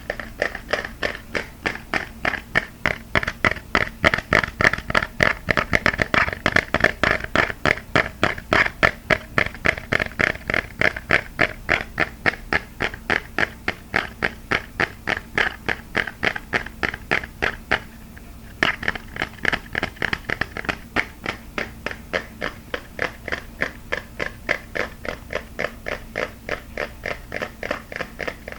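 Fast, even tapping of fingers on a hard object, about four to five taps a second, with a brief pause a little under two-thirds of the way through.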